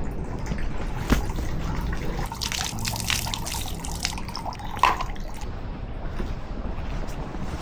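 Water dripping and splashing, with two sharp knocks, one about a second in and one near five seconds.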